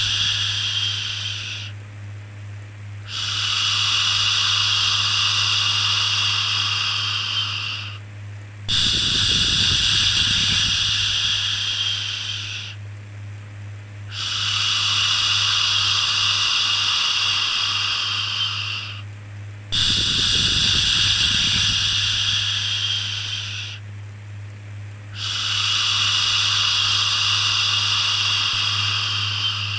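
Soothing 'shhh' shushing sound, each shush lasting about five seconds and fading off before the next begins, repeating about every five and a half seconds with short pauses between. A low steady hum runs underneath.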